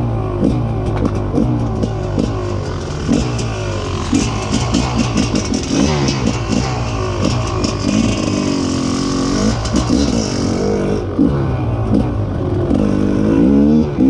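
Rieju MR 300 two-stroke enduro dirt bike engine being ridden, revving up and falling back repeatedly as the throttle is worked, with clatter and spray noise in the middle.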